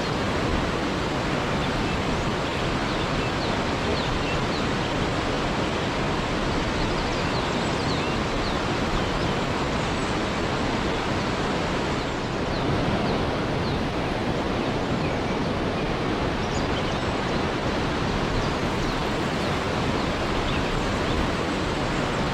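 Waterfall: a steady, even rush of falling water, with faint short high chirps scattered through it.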